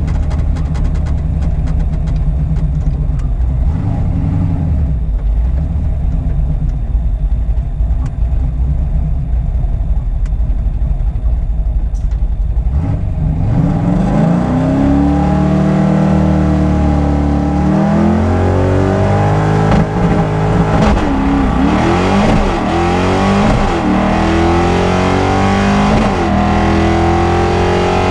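Drag car engine rumbling low and steady, then about halfway through revving up hard in a series of rising sweeps that break and climb again, like a car accelerating through its gears down the strip.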